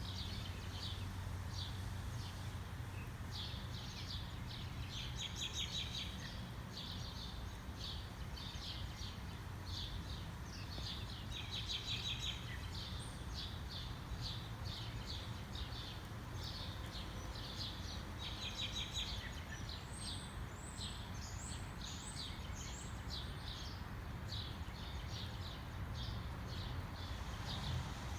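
Small birds chirping in quick repeated runs over a steady low rumble, with a few downward-sweeping calls about two-thirds of the way through.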